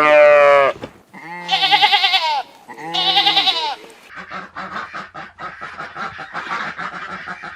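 Three loud, quavering bleats from a farm animal, each about a second long, followed from about four seconds in by dense, irregular clicking and rustling.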